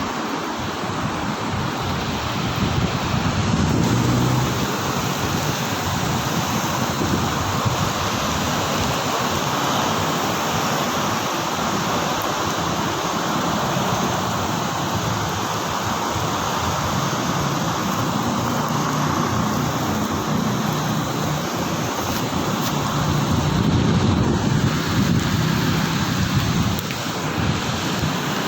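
Steady, fairly heavy rain falling, an even hiss with a low rumble that swells a couple of times.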